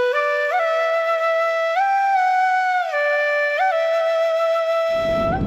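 Background music: a slow melody on a flute, held notes stepping up and down. Near the end the melody pauses and a steady rushing noise comes in.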